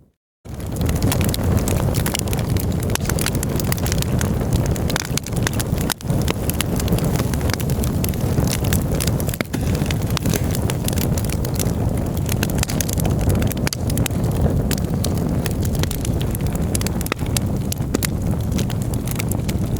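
Campfire burning: wood crackling and popping irregularly and continuously over a steady low rumble. A brief dropout to silence right at the start, then the crackle resumes.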